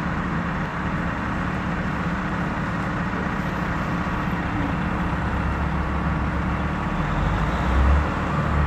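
Heavy snow-removal vehicles running steadily, a constant engine rumble under a wide noise, with the low rumble swelling louder near the end.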